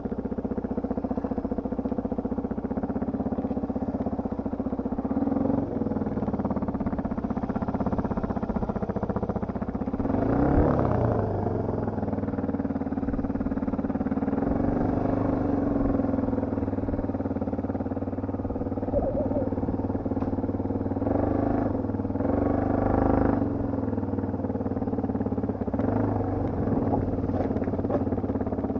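Motocross dirt bike engine running under way, holding a steady drone with rises and falls in revs. There is a louder burst of revving about ten seconds in and again a little past twenty seconds.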